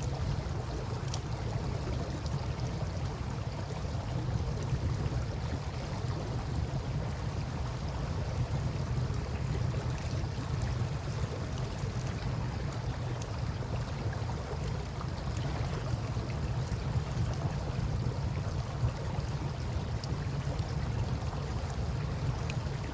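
Steady rush of river water with a low rumble underneath, and occasional faint pops and crackles from a campfire.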